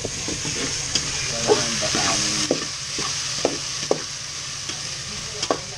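Diced potatoes, garlic and onion sizzling in oil in a metal pot while a spoon stirs them. The spoon gives a few sharp knocks and scrapes against the pot over the steady sizzle.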